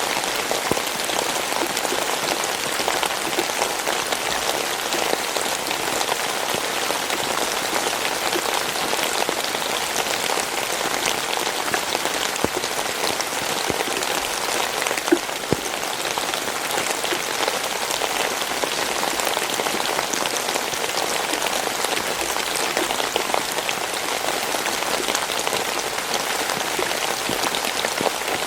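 Steady rainfall: a dense, even patter of drops hitting a surface, with individual drops ticking through it and one sharper drop about halfway.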